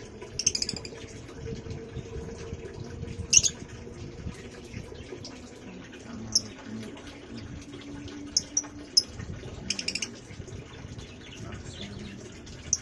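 Caged birds giving short, sharp, high chirps every few seconds over a low steady hum.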